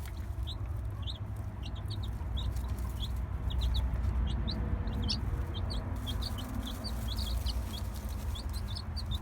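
Young chicks peeping, many short high cheeps one after another, over a steady low rumble.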